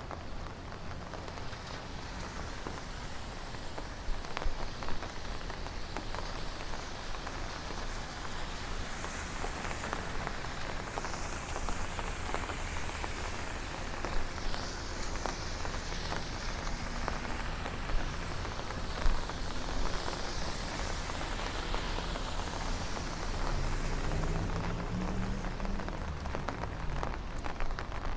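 Steady rain falling on the street, with scattered louder drops ticking sharply. A low rising tone comes in near the end.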